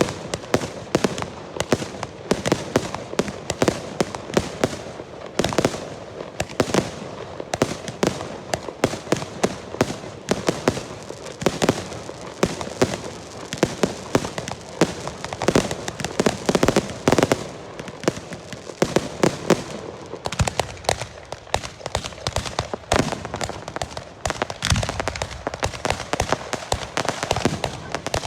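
Girândolas of fireworks rockets going off: a dense, continuous barrage of sharp bangs and cracks, many a second, thinning slightly about three-quarters of the way through.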